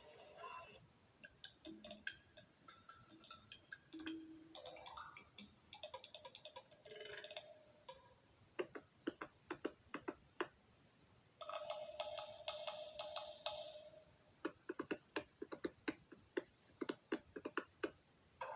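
Runs of sharp taps or knocks, some in a fast rattling train and others in irregular volleys, alternating with short bursts of music.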